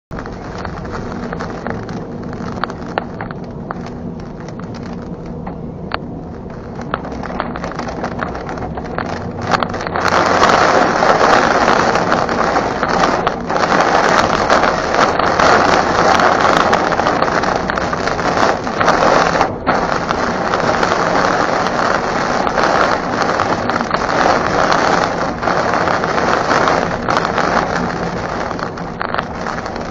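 Heavy rain beating down on a car during a storm, a dense steady hiss that grows heavier about ten seconds in, with a faint low hum underneath.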